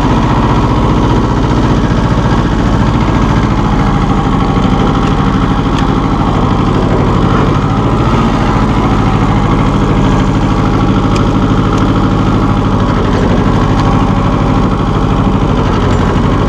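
1984 John Deere 650 compact tractor's three-cylinder diesel engine running steadily as the tractor drives forward in high range.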